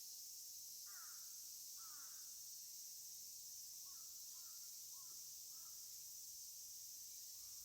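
A crow cawing: two harsh, falling caws about a second apart, then a few shorter, softer calls, over a steady high insect drone.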